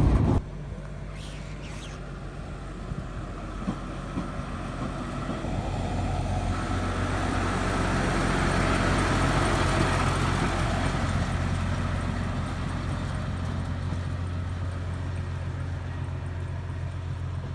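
Engine of an Mk48 narrow-gauge diesel locomotive running steadily with a low hum. It grows louder in the middle and then eases off again.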